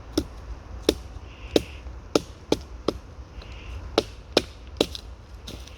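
Small flat hatchet chopping through thin branches: about ten sharp, separate chopping strikes, a few in quick pairs.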